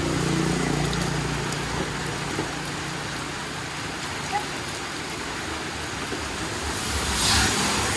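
Steady rain falling, a constant hiss of water, with a louder rush of splashing water about seven seconds in.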